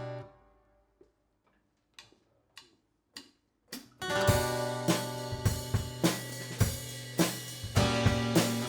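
A strummed guitar chord rings out and is cut off, then a short near-quiet pause with a run of evenly spaced sharp clicks counting in. About four seconds in, a live band comes in together: drum kit with cymbals under chording guitars.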